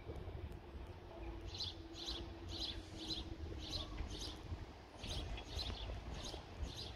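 A small bird chirping repeatedly, short high notes about twice a second, starting about a second and a half in. Under it is a faint steady low hum that fades out about four seconds in.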